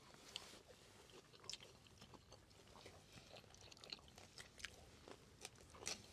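Faint close-up chewing: a person eating, with small irregular smacks and clicks of the mouth.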